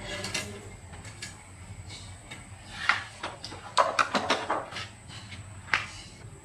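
Short knocks and clatters of tools and engine parts being handled on a workbench: one about three seconds in, a quick run of them around four seconds, and one more near the end, over a low steady hum.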